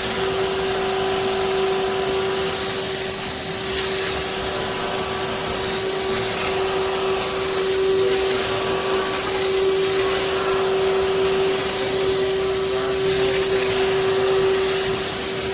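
BISSELL CrossWave Cordless Max wet-dry vacuum-mop running steadily: a constant motor hum over an even rush of suction air.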